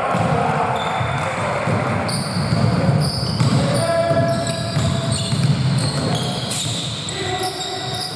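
Basketball game in a hall: the ball bouncing on the court, mixed with many short, high squeaks and players' voices.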